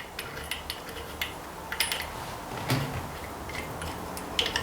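Scattered light metal clinks and taps of bolts and hand tools being handled while a cover is bolted on.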